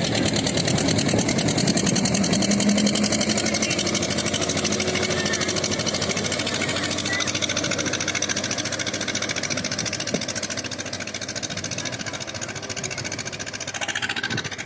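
Tractor diesel engine running with a rapid, even exhaust beat. It gets a little louder about two seconds in, then slowly eases off.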